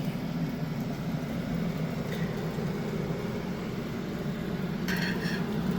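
Egg-dipped bread slices frying in a hot pan, sizzling steadily over a constant low hum.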